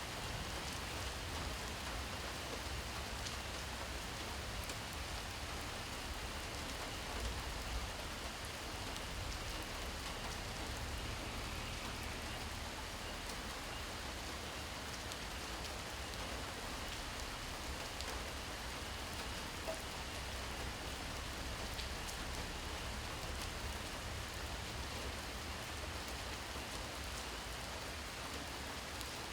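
Steady rain falling on surfaces: an even hiss with scattered individual drops, over a steady low rumble.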